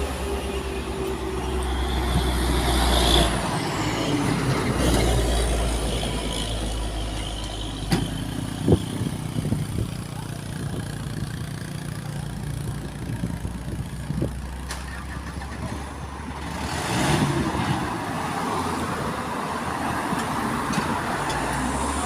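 Heavy diesel truck engines running, with a few sharp knocks and a louder burst of hiss about three-quarters of the way through.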